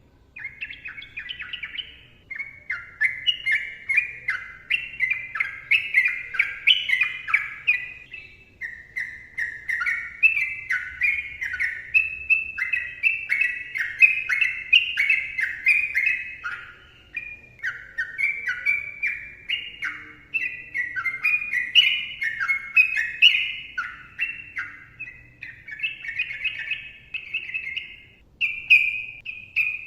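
Sooty-headed bulbul (trucukan) singing a long, fast, chattering run of short whistled notes with only brief pauses: the continuous 'ropel' style of song.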